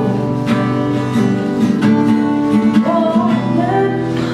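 Acoustic guitar strummed, its chords ringing on, accompanying a worship song between sung lines, with a strum about every second.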